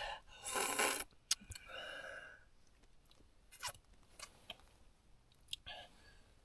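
A man eating freshly boiled dumplings: close-up chewing and biting, with a few sharp clicks from utensils.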